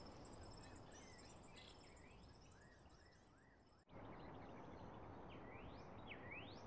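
Near silence: faint outdoor background with distant birds chirping in short repeated notes and rising whistles. The background changes abruptly a little before halfway, as at an audio cut.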